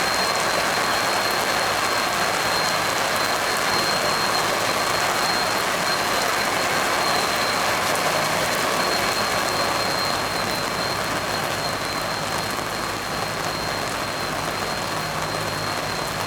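Steady rushing hiss of spraying and falling water, with a thin, steady high whistle above it; it eases slightly about ten seconds in.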